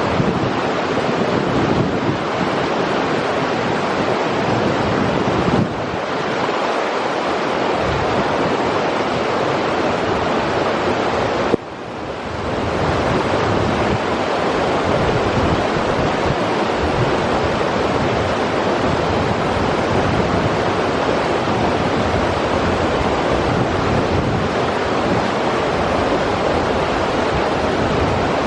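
River water rushing steadily over its bed, a loud, even wash of noise. It drops suddenly and briefly a little before halfway, then comes back.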